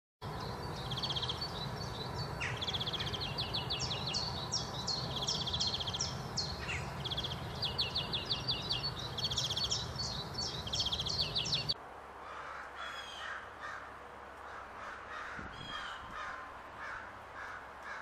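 Songbirds singing in rapid, repeated high trills over a steady low background noise. About twelve seconds in, the sound cuts to a quieter stretch of lower, spaced bird calls.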